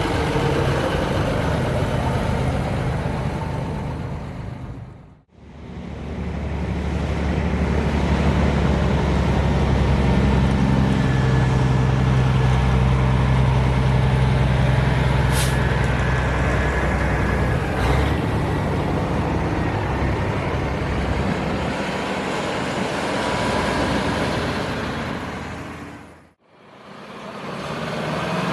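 Heavy diesel truck engines running with a steady low rumble, the sound fading out and back in twice as the clips change. A brief high squeal comes about halfway through.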